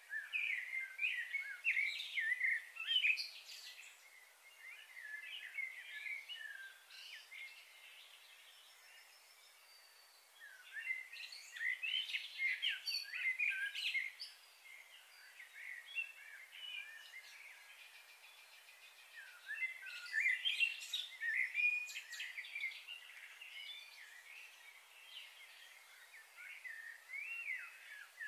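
Songbirds chirping and twittering in bursts of quick, high calls a few seconds long, about every ten seconds, with quieter stretches between.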